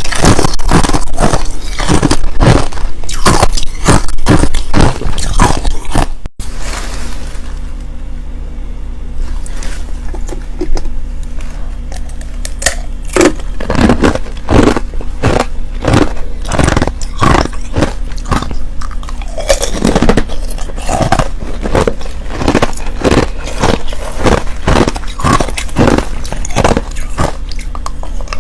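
Clear and powdery crushed ice being bitten and chewed close to the microphone. There is fast, dense crunching for about six seconds, then after a sudden cut the crunches are quieter and more spaced, with a faint low hum underneath.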